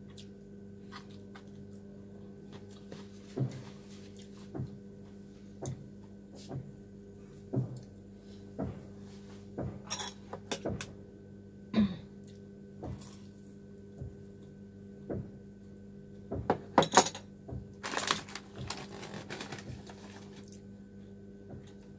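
Eating at a table: chopsticks and a spoon clicking now and then against bowls, over a steady low hum. Near the end a plastic food packet rustles and crinkles as it is opened.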